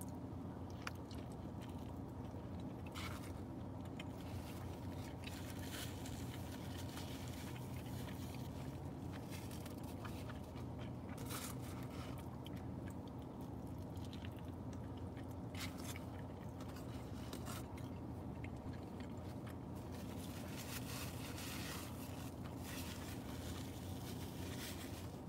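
Chewing and biting into a breakfast burrito close to the microphone, with scattered small clicks, over a steady low hum.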